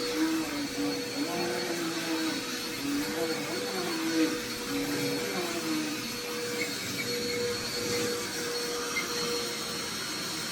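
Vacuum cleaner running steadily, its motor drone and airflow hiss holding a fixed pitch.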